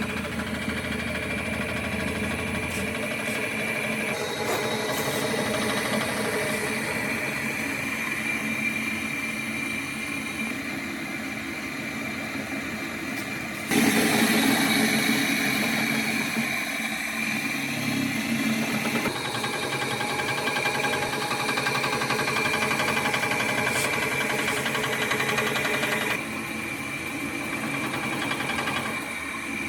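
A motor-driven machine running steadily with a held whine over a constant hum. The sound shifts abruptly in pitch and loudness several times.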